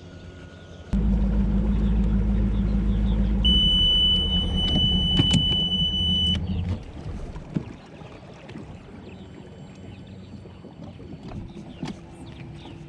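Boat outboard motor starts and runs with a steady low rumble, then cuts off about two-thirds of the way through. Over the running engine the outboard's warning horn gives a steady high-pitched tone for about three seconds, an overheat alarm.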